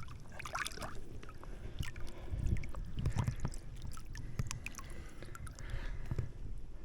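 Water lapping and sloshing around a kayak, with small knocks and rustles as people shift and handle things in the boat, a little louder about two to three seconds in.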